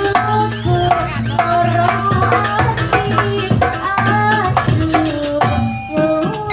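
Javanese gamelan-style music: hand-drum strokes driving a steady rhythm under held, ringing melodic notes.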